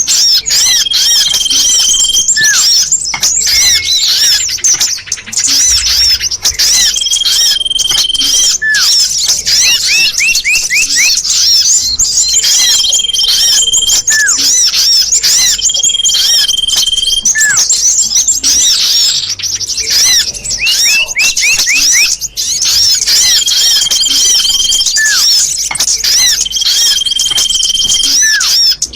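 Bird-luring recording of many small birds chattering and chirping densely, played to draw small birds in. A steady, level whistle of about a second recurs every few seconds, and quick runs of rising notes come about a third and two thirds of the way through.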